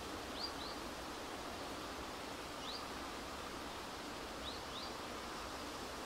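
A bird giving short, high, upward-sweeping chirps: two in quick succession near the start, one in the middle and two more near the end. Beneath them is a steady rushing background noise.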